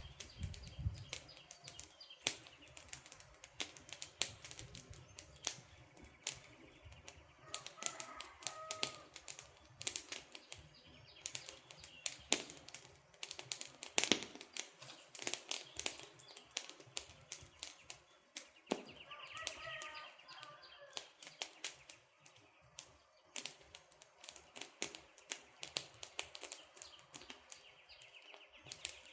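Burning campfire wood crackling, with irregular sharp pops and snaps, some in quick clusters and a few louder single cracks.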